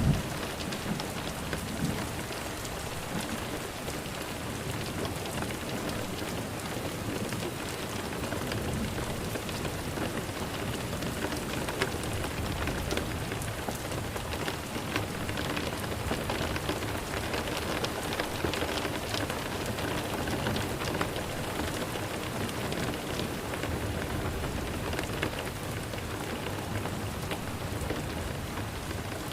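Steady rain falling on a surface, many fine drop ticks over a continuous patter.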